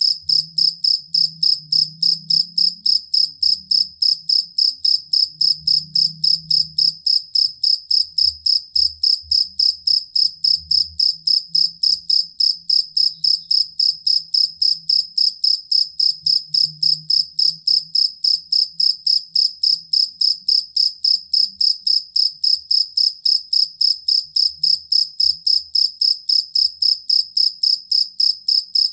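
Field cricket (jangkrik kalung) chirping steadily and loudly: a high, ringing chirp repeated evenly about three times a second without a break.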